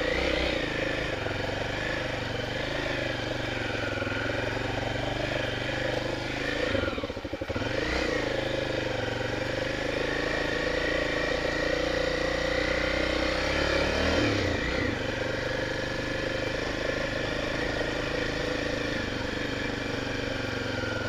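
Honda XR 250 Tornado's single-cylinder four-stroke engine running steadily as the motorcycle is ridden slowly over a muddy track, with a brief drop in the engine note about seven seconds in and a shift in pitch about halfway through.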